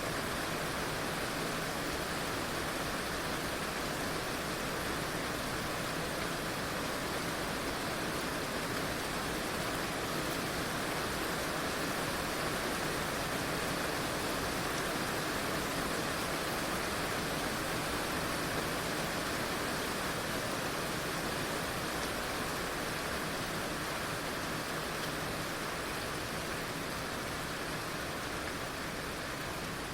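Heavy rain falling steadily, a dense, even hiss without breaks or single drops standing out.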